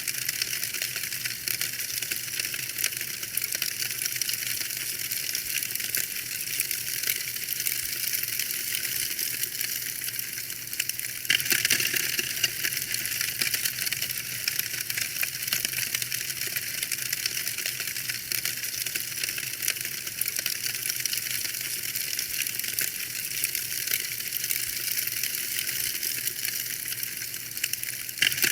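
Wood fire in a fireplace crackling steadily, a dense run of small pops and snaps over a soft hiss, briefly louder about eleven seconds in.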